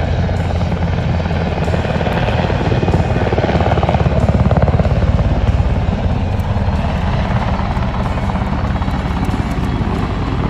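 Aircraft flying past at an air show, a rapid throbbing engine and rotor or propeller sound that swells to its loudest about halfway through and then eases off.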